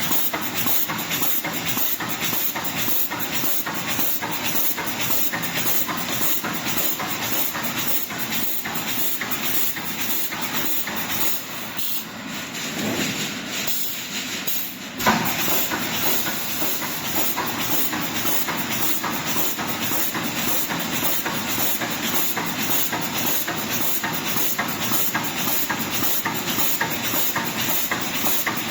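358 fence mesh welding machine running, with a steady hiss and clatter that pulses in a fast, regular beat of welding strokes. It goes briefly quieter about halfway through, then a sudden knock.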